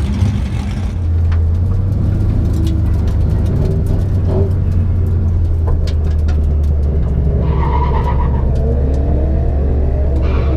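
Car engine running steadily with a deep, even drone, with scattered light ticks over it; a rising engine note comes in near the end.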